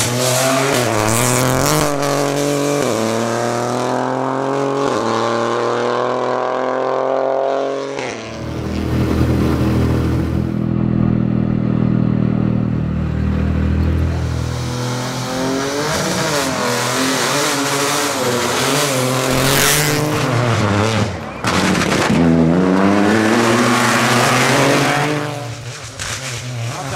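Lancia Ypsilon Rally4 HF rally car's engine pulling hard, its pitch climbing again and again and dropping back at each gear change. A heavier, steadier low drone runs in the middle stretch before the revs climb once more.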